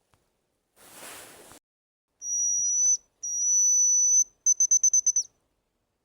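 A brief rustle, then a high-pitched steady whistle: two long notes followed by a quick run of about eight short pips.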